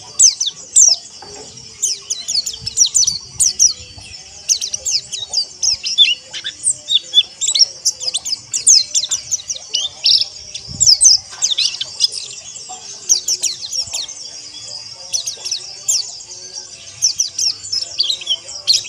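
A flock of white-eyes (pleci) chirping and chattering together. Many birds are calling at once, with dense runs of quick, high, sweeping chirps in overlapping bursts.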